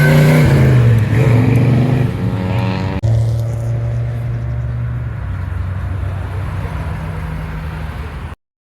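A car engine revving up and down, then after an abrupt cut about three seconds in, a car engine running steadily and slowly fading before the sound cuts off near the end.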